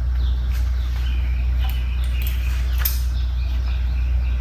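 A few short metallic clicks and scrapes as a Phillips screwdriver slips in a stripped carburetor float-bowl screw whose head is chewing up. Birds chirp over a steady low hum.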